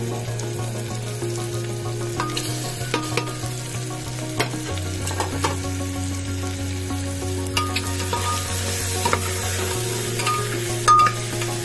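Vegetables and barley dalia frying in oil in an aluminium pressure cooker, sizzling, while a metal spatula stirs and knocks against the pot in sharp clicks, the loudest near the end.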